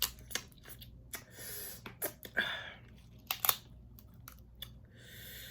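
Snow crab leg shells cracking and snapping by hand, a run of sharp clicks with short noisy stretches of eating between them; the loudest cracks come about three and a half seconds in.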